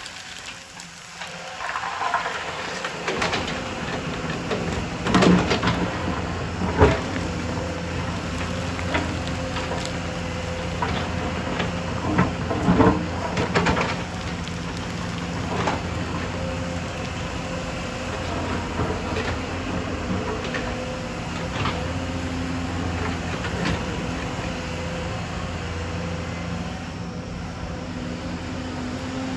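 Excavator's diesel engine running steadily under load, with scattered metal clanks and knocks from the machine working, the loudest a few seconds in and again near the middle.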